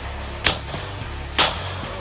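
Two gunshots about a second apart, each a sharp crack with a short tail, over steady background music.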